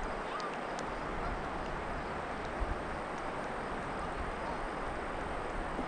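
Steady outdoor river ambience, a constant rush of flowing water, with a few faint short chirps.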